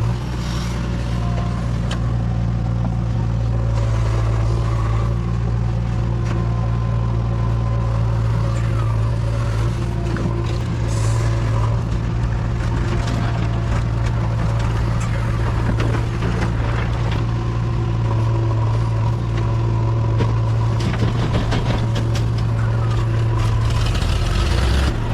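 JCB 3DX backhoe loader's diesel engine running steadily while working. There is a stretch of clatter and scraping near the end.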